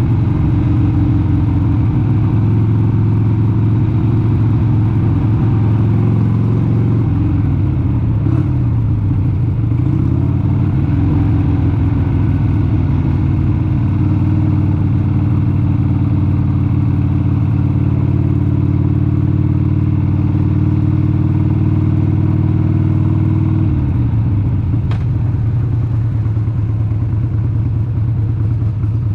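1996 Harley-Davidson XLH883 Sportster's 883 cc air-cooled V-twin engine running under way at a steady cruise. Its pitch dips and climbs back about seven to eleven seconds in, then falls and settles lower near the end.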